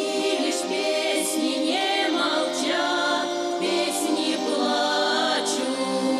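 Russian folk ensemble singing a song in chorus, several voices together.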